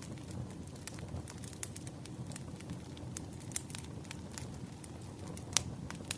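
Campfire burning with a steady low rush and irregular sharp crackles and pops of burning wood, one louder pop near the end.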